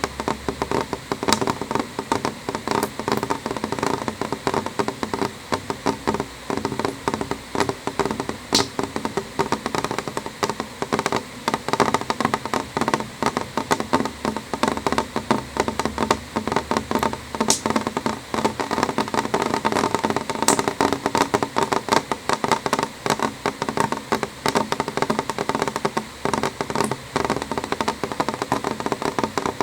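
Rain on a window pane: a steady, dense stream of small drop impacts on the glass.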